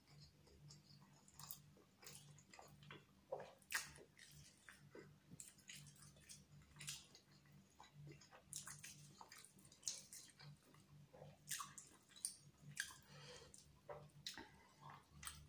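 Quiet, close-miked eating of rice biryani by hand: irregular wet chewing clicks and lip smacks, mixed with fingers squishing and gathering rice on a stainless steel plate.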